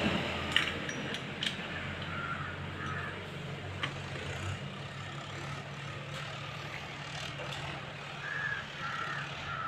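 A few sharp clicks and taps of tools on metal, in the first four seconds, during motorcycle engine assembly, over a steady low hum. A crow caws in short calls twice, about two seconds in and near the end.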